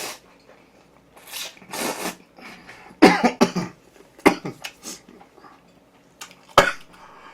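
Close-miked eating sounds with breaths and scattered sharp clicks, and a cough about three seconds in.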